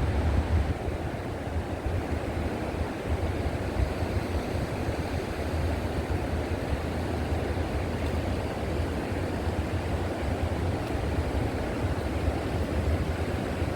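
River water flowing in a steady, even rush, with a heavy low rumble underneath.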